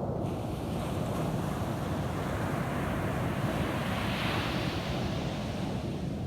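Ocean wave breaking and washing up a sandy beach: a rushing hiss that swells to its peak about four seconds in and then fades, over a steady low rumble of surf and wind.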